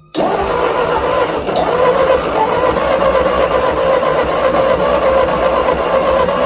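1952 Ford 8N tractor's flathead four-cylinder engine being cranked over on the starter, starting abruptly and turning steadily without catching, with a spark plug pulled to check for spark at the plug.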